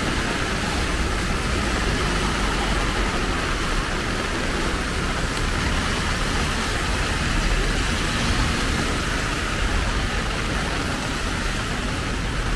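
Heavy rain of large drops beating steadily on an umbrella, as a dense even hiss, with a low rumble underneath.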